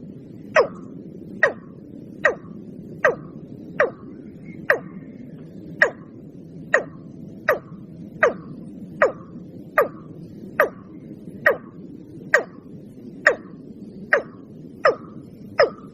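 Watercock calling: a long, steady series of short, sharp notes, each falling steeply in pitch, about one every 0.8 seconds, over a faint low hum.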